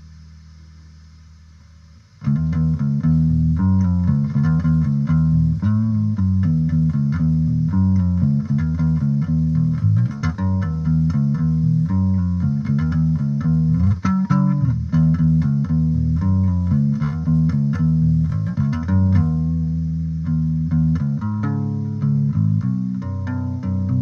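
Electric bass guitar played through an amplifier cabinet: a held low note fading away, then about two seconds in a busy run of quick plucked notes.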